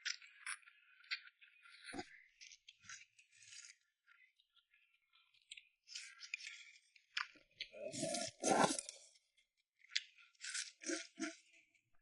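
Close-miked mouth sounds of someone eating soft, gelatinous braised soft-shelled turtle: irregular wet clicks, smacks and sucking. The sounds come louder and fuller in a short cluster about eight seconds in.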